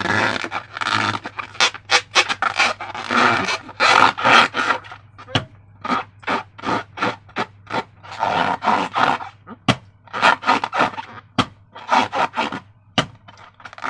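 Slime being squeezed and worked by hand: a fast, irregular run of wet squelches and crackles.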